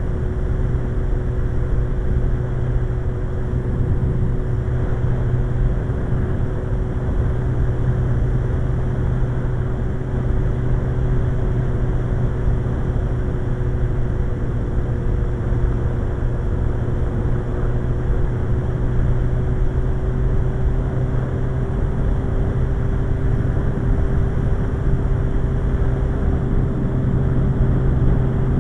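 Suzuki GSX-R 1100 motorcycle's inline-four engine running at a steady cruise, with road and wind rush. The engine note holds nearly steady, dipping slightly midway and rising a little near the end.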